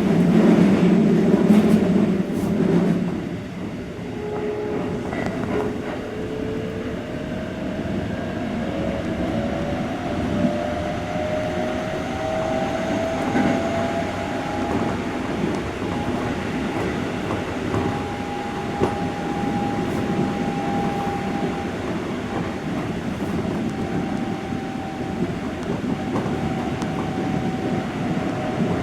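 Keikyu 600 series electric train running, heard from inside a motor car. The Mitsubishi GTO VVVF inverter and traction motors whine, rising in pitch as the train accelerates and then holding steady at speed, over a running rumble with wheels clicking over rail joints. A louder low rumble fills the first few seconds.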